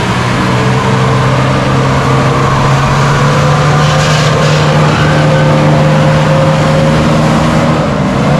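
Off-road 4x4's engine held at steady revs under load, with a rushing noise over it; the revs drop near the end.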